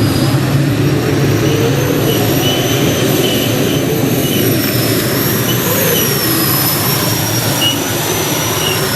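Pulling tractor's engine running steadily and loud, with a thin high whine wavering slowly above the low drone.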